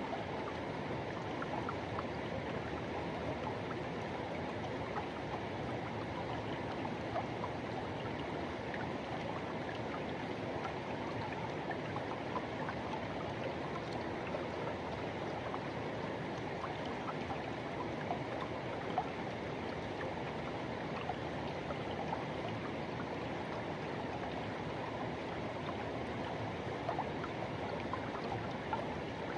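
Forest river flowing over rocks: a steady rush of water with small gurgles and splashes.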